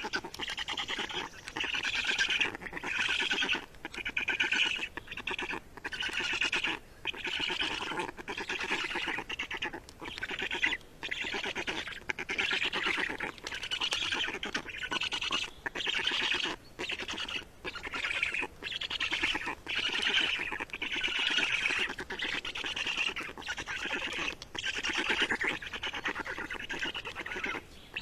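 Small bird calling almost nonstop, harsh rasping calls broken by short pauses about once a second.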